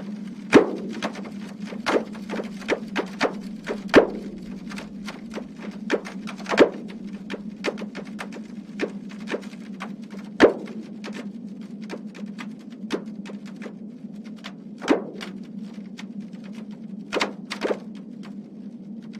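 Seismometer recording sped up into audible sound by the Earthtunes app: a steady hum under frequent irregular pops and thuds, each a small earthquake in the swarm before the Reykjanes peninsula eruption. The few loudest thuds end in a short falling tail.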